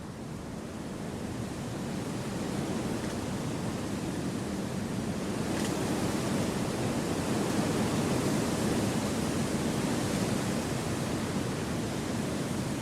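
Wind blowing through forest trees: a steady, even rush that swells over the first two or three seconds and then holds.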